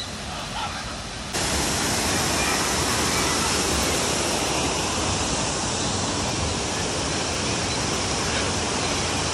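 Steady rush of falling water, a waterfall, starting suddenly a little over a second in.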